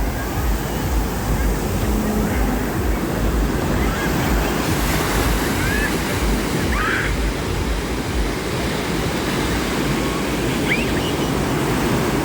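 Pacific Ocean surf washing in steadily, with wind rumbling on the microphone.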